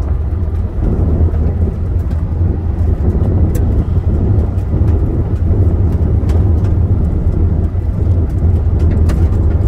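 Car driving on a gravel road, heard from inside the cabin: a steady low rumble of engine and tyres, with scattered sharp ticks.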